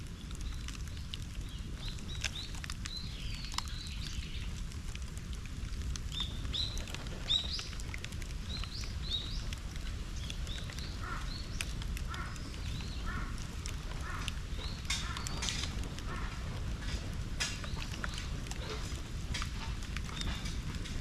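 Small birds chirping in many short calls over a steady low rumble, with scattered sharp crackles from a bonfire of cut bamboo and wood, thicker in the second half.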